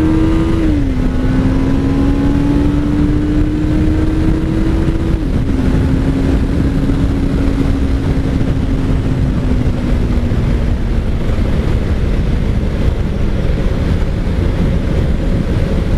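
Kawasaki Ninja 500 parallel-twin engine under way: it climbs and shifts up about a second in, climbs again and shifts up about five seconds in, then its pitch slowly falls as it eases off. Heavy wind noise on the microphone throughout.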